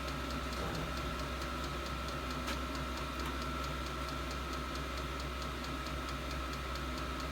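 8 kW 12 V all-in-one diesel heater running: a steady hum with a thin steady whine over it and a faint, fast, even ticking.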